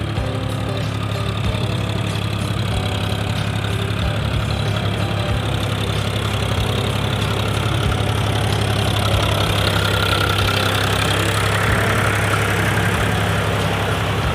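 Powertrac tractor's diesel engine running steadily under load in low gear, driving a Shaktiman rotavator that churns heavy wet paddy mud for puddling. A higher, noisier mechanical sound swells a little about ten seconds in.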